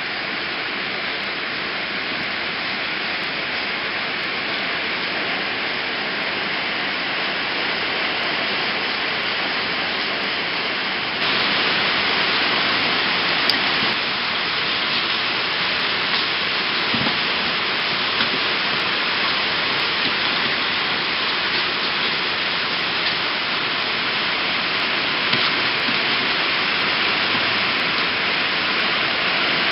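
Steady rain, an even hiss that steps up a little louder about eleven seconds in, with a few faint ticks.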